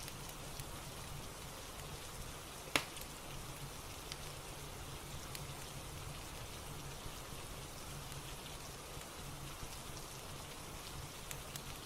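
Steady rain ambience with a soft fireplace crackle under it: scattered faint ticks, and one sharper crack about three seconds in.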